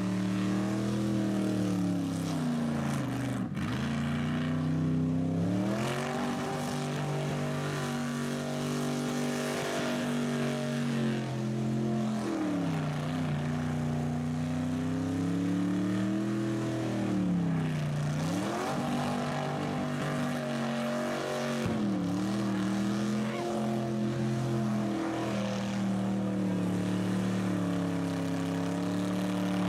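Vehicle engine running steadily, its pitch dipping and climbing back several times.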